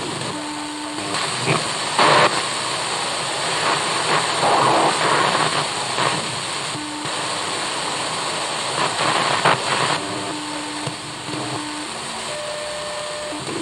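Old television hissing with static as its channels are changed, with louder bursts of noise and short steady hums that come and go between stations.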